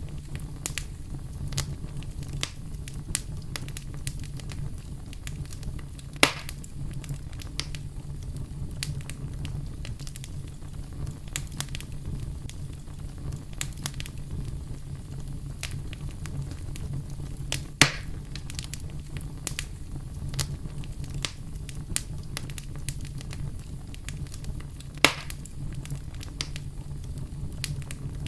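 Wood fire crackling, with irregular sharp pops and a few louder snaps spread through, over a steady low rumble.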